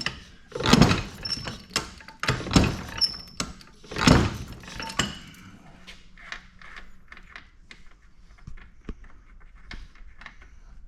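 Vintage stationary engine being turned over by pushing its flywheel: three loud puffs about every couple of seconds in the first four seconds, then it coasts to a stop without firing, because it is out of gas. Light clicks and knocks follow.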